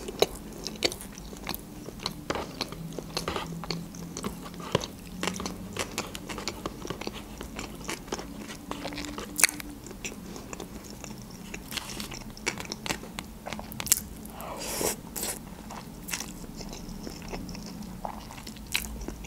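Close-miked eating: steady chewing with many sharp crunches and wet mouth clicks, over a faint steady low hum.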